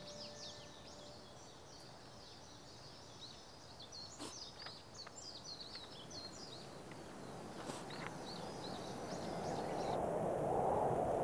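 Small birds chirping and twittering in quick, high, repeated calls. In the last few seconds the birds fade and a rushing noise swells up.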